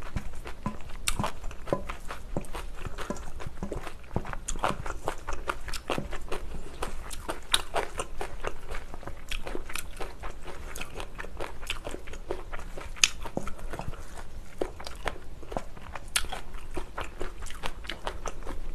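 Close-up chewing of a mouthful of spicy bibimbap, with many small, irregular crunches from crisp raw onion, mixed with the soft sounds of chopsticks and a spoon stirring rice in a stainless steel bowl.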